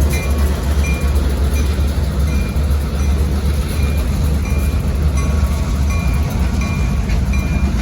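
A train rolling past close by: a loud, steady low rumble of wheels and cars on the rails, with short high tones repeating at a steady pace.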